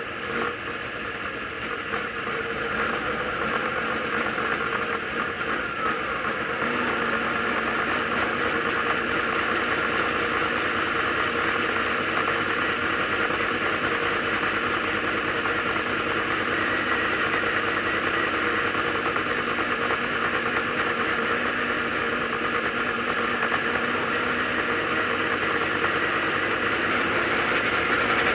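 Dirt late model race car engine running steadily while being driven, getting a little louder about seven seconds in.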